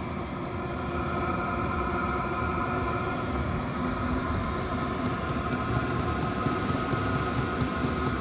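Chinese diesel air heater running as it ramps up to a higher setting: its combustion blower fan hums steadily, getting a little louder about a second in, over the quick, even ticking of its fuel pump, whose pulse rate sets the heat output.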